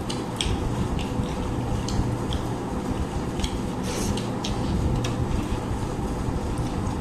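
Small clicks and smacks of people eating a rice-and-curry meal by hand, over a steady low hum.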